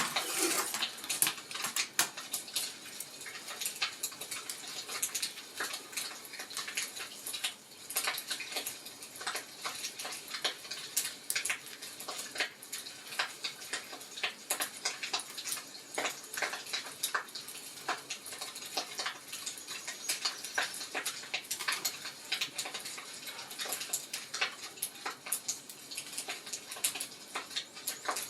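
Wood fire crackling, with many irregular sharp pops and snaps over a soft hiss.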